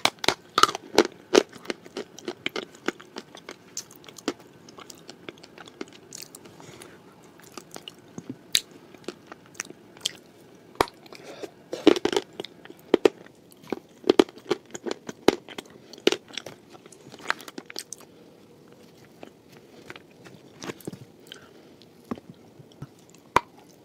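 A person biting and chewing crunchy clay cookies spread with Uzbek blue clay paste, close to the microphone. Sharp crunches come in clusters, the loudest about a second in and again around the middle, with quieter chewing between.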